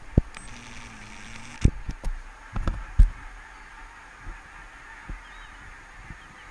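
A flock of geese honking. Several sharp knocks, the loudest sounds, come in the first three seconds.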